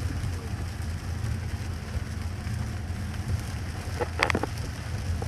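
Hard rain falling steadily during a thunderstorm, with a low steady rumble underneath. A brief cluster of clicks comes about four seconds in.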